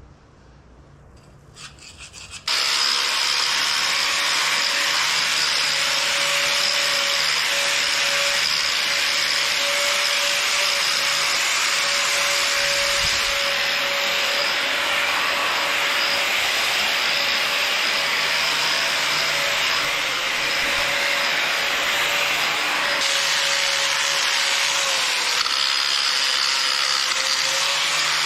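A power tool fitted with a wire wheel starts about two and a half seconds in and runs steadily with a constant motor whine, scrubbing packed dirt and old oil off a cast-iron tractor front counterweight.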